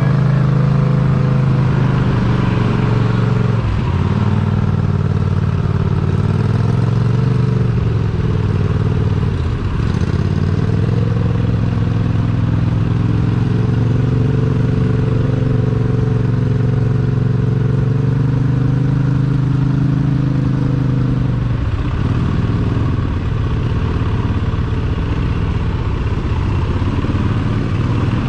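Mega truck engine running hard under load, its pitch dropping briefly and climbing back three times.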